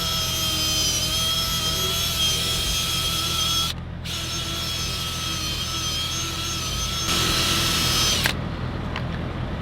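Drill spinning a foam polishing ball loaded with Mothers compound against a plastic truck light lens, buffing out the haze: a steady motor whine that cuts out briefly about four seconds in, then runs again and stops about a second before the end.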